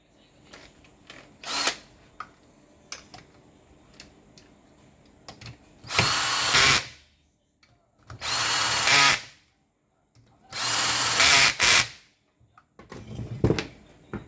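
An electric power tool runs in three short bursts of about a second each, with light clicks and knocks of handling between them.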